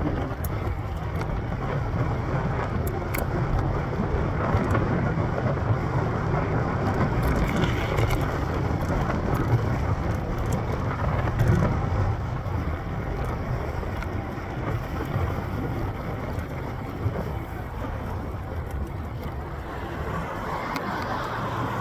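Steady wind and road rumble from riding a mountain bike along a city street, with motor traffic mixed in.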